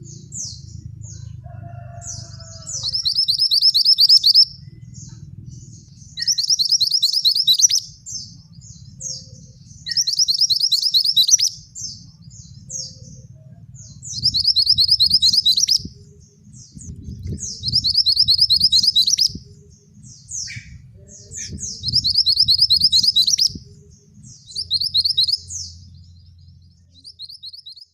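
Male scarlet minivet singing: a loud, rapid high trill lasting about a second and a half, repeated about every four seconds, with short sharp call notes in between. A low rumble runs underneath.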